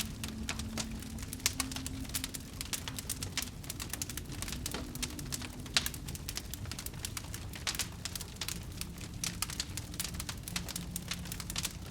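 Fire burning with a constant crackle: many irregular sharp pops and snaps over a low steady rumble, with two louder pops, one about a second in and one near the middle.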